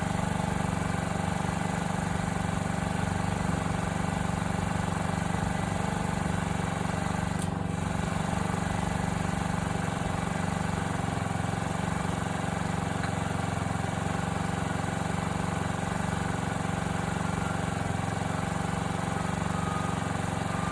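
2020 Honda Ruckus scooter's 49cc four-stroke single-cylinder engine idling steadily, run to warm it up before an oil change.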